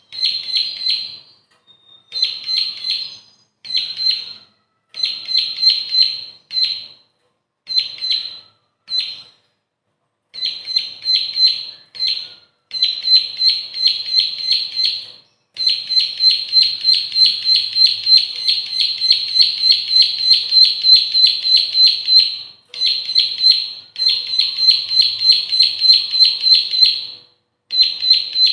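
Bar-winged prinia (ciblek) singing: short bursts of rapid, repeated high chipping notes, then from about halfway a long unbroken run of the same notes lasting several seconds, followed by another long run.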